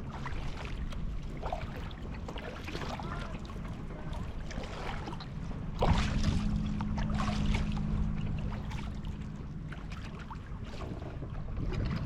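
Water splashing and dripping around a kayak as it is paddled, with wind rumbling on the microphone. About six seconds in a low steady hum starts suddenly and fades over a few seconds.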